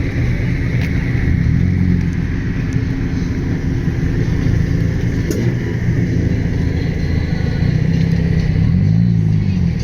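Classic car engines running at low speed, with a low steady rumble. Near the end the pitch rises and falls as an engine revs or a car moves past.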